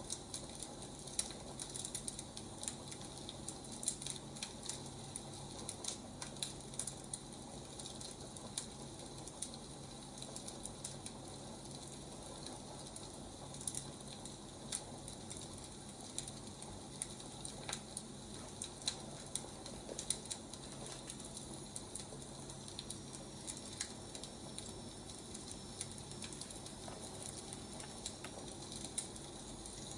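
Firewood burning, crackling with scattered sharp pops over a steady soft hiss.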